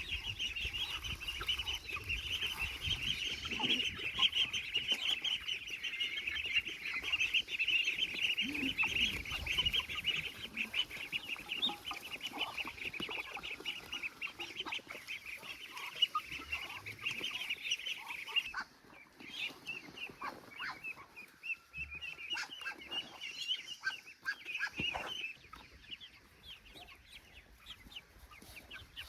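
Many young poultry peeping together in a dense, continuous high chatter; about eighteen seconds in it drops suddenly to fewer, scattered peeps.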